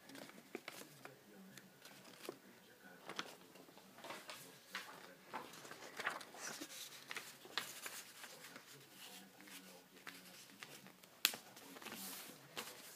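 A sheet of paper being folded and creased by hand: irregular soft rustles and crisp little taps, with one sharper click near the end.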